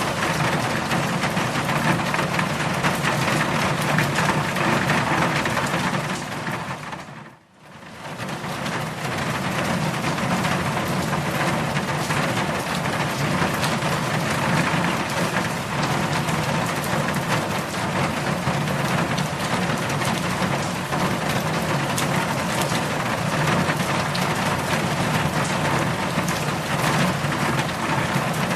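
Heavy rain falling steadily as a dense, even hiss. About seven seconds in it fades almost to nothing and swells back within a second or two.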